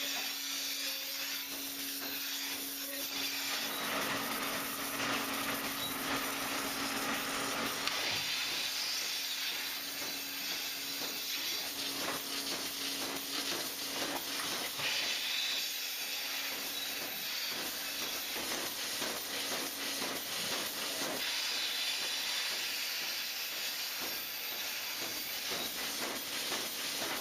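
Milking-parlour vacuum milking system running: a steady hiss of air at the milking units over a constant low hum, with faint scattered clicks.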